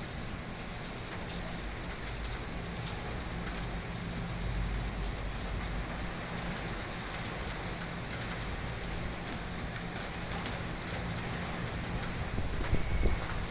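Steady rain from a typhoon falling and hitting surfaces, with a faint low hum underneath.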